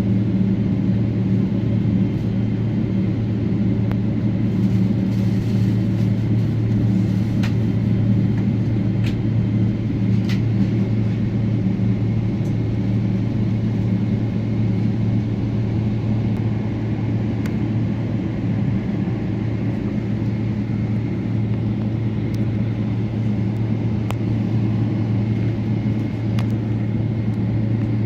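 Steady low cabin drone inside a Boeing 777-300ER airliner, an even hum with a few faint clicks through it.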